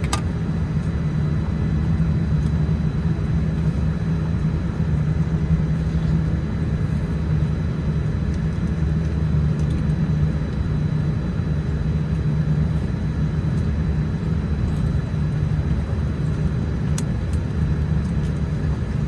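Steady low hum of a Boeing 787-10's cabin on the ground after landing, with a faint steady high whine above it and a couple of brief clicks, one right at the start and one near the end.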